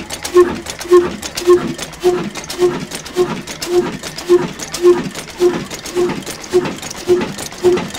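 Old black stationary diesel engine running slowly and evenly, its exhaust beats coming a little under twice a second.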